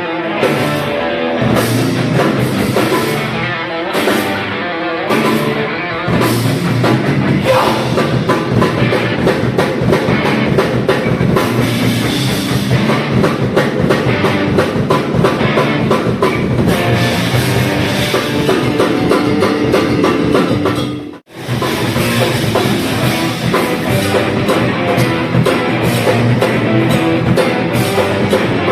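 Heavy metal band playing live, with drum kit and distorted guitars, in the grindcore/crossover style. The sound cuts out briefly about three-quarters of the way through, then the music resumes.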